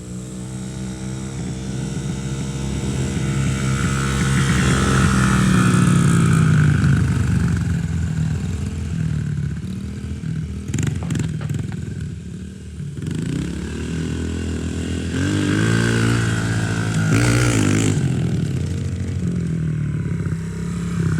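Dirt bike engine running as the bike is ridden around, revving up and easing off, so the pitch rises and falls. It grows loudest about five to seven seconds in and again around sixteen to seventeen seconds.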